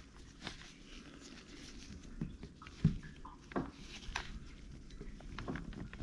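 Scattered small clicks, taps and light rustling of hands handling CV axle parts on paper.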